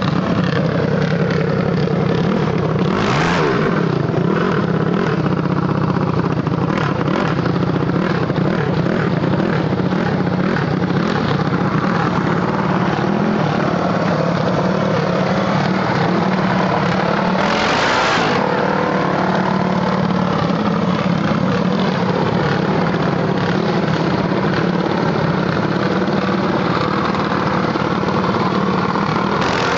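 Small minibike engines running steadily, idling and revving, with brief rushes of noise about three seconds in, halfway through and near the end.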